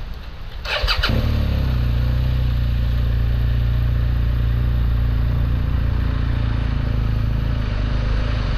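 Motorcycle engine started: a brief burst of starter cranking just under a second in, then the engine catches and settles into a steady idle.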